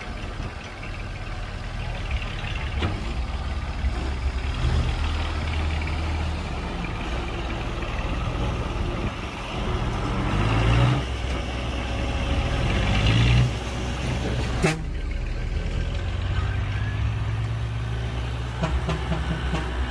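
Heavy diesel engine of earthmoving machinery running, revving up twice about halfway through. A sharp click comes about 15 seconds in.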